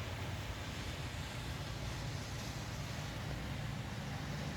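Steady low rumble of a car driving through the water, with a constant hiss of noise over it.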